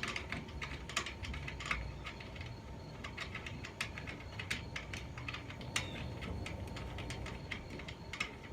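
Irregular light metallic clicks and ticks, a few a second, from hand work on the boom's roller-reefing fitting as the thumb screw is threaded back in to lock the boom against turning.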